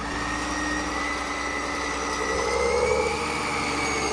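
A steady motor-like drone with a faint whine that slowly rises in pitch.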